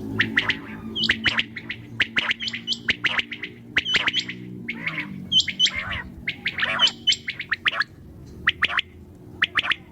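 Common quail calling: clusters of short, sharp chirping notes repeated over and over, some ending in a hooked higher note. A low steady hum runs under the first half and fades out about five seconds in.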